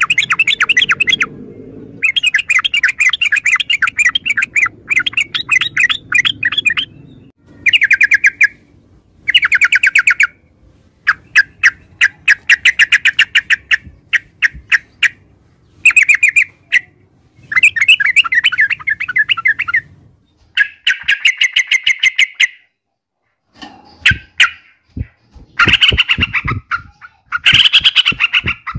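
Yellow-vented bulbul calling in a run of short bubbling phrases, each a rapid string of notes, repeated with brief pauses. A few sharp clicks come in among the calls near the end.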